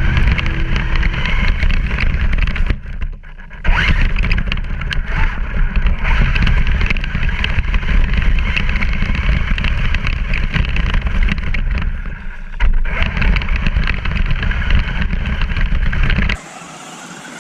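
Traxxas Stampede radio-controlled truck driving, its electric motor and tyres loud and noisy over rough ground. The sound drops away suddenly near the end.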